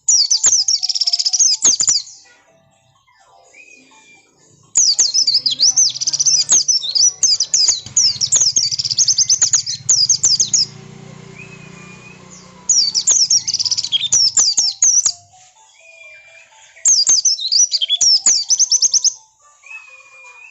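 White-eye (pleci) singing in four bursts of rapid, high-pitched twittering, each about two seconds long except a longer run of about five seconds, with short pauses between. It is an insistent song of the kind used as a lure recording to make other white-eyes answer.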